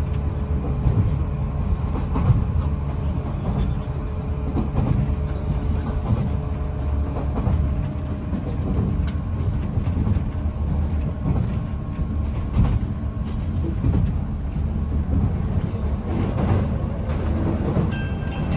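Steady running rumble inside a JR 185 series electric train's passenger car on the move, with occasional knocks from the wheels and rails. Near the very end the car's chime starts with high bell-like notes.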